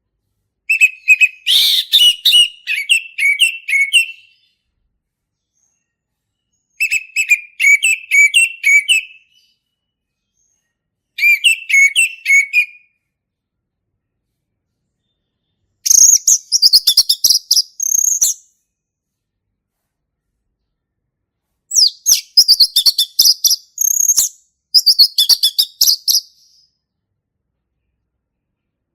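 Male orange-headed thrush singing its loud, clear 'ngeplong' song: six separate phrases of rapid, varied notes, each a second and a half to three seconds long, with pauses between them. The first three phrases sit lower and the last three are pitched higher.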